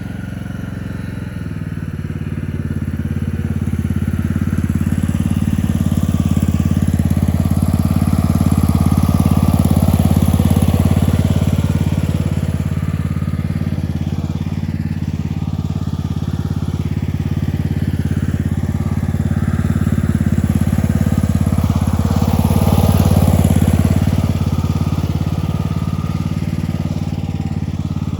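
Tractor engine running steadily, growing louder over the first few seconds and swelling twice more, near the middle and near the end.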